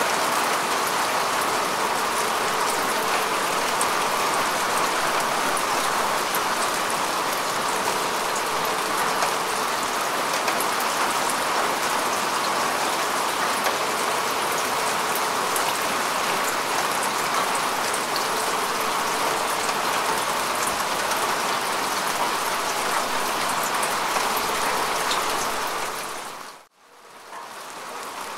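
Steady rain falling on grass and earth: an even hiss of drops with fine individual patters on top. Near the end it dips almost to silence for a moment, then fades back in.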